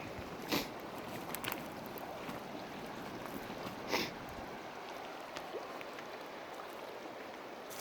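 Fast-flowing creek water rushing in a steady hiss, with a few brief knocks about half a second, one and a half and four seconds in.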